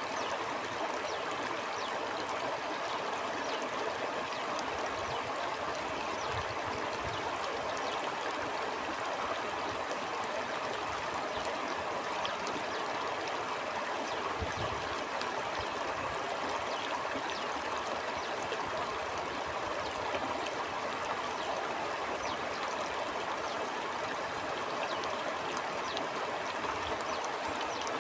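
A flowing stream: steady rushing, babbling water with small trickles and splashes throughout, and a couple of brief low rumbles along the way.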